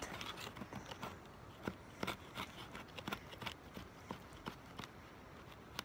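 Pocket knife carving and squaring a piece of dry wood for a fireboard: irregular short scrapes and clicks of the blade on the wood, two or three a second.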